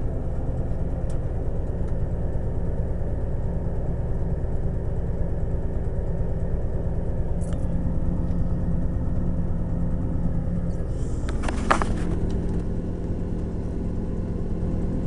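A Jeep Grand Wagoneer's AMC 360 (5.9 L) V8 with a two-barrel carburettor runs steadily, heard from inside the cab with the heater blower going. It has the miss that the owner puts down to a bad rear spark plug and a leaking exhaust manifold. A brief clatter of clicks comes about eleven to twelve seconds in.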